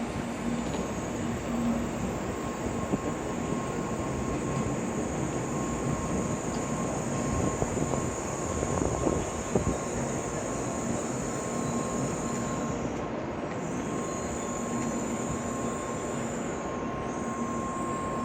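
Shinkansen bullet train pulling into the platform: a steady broad rumble with a thin steady whine, swelling a little in the middle.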